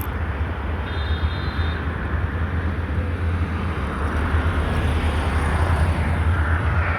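Steady road traffic noise with a strong low rumble throughout. A brief high-pitched tone comes about a second in.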